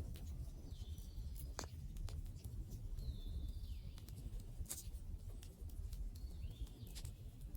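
Wood fire crackling, with sharp pops over a low steady rumble. A bird repeats a short call that falls in pitch, about once every two to three seconds.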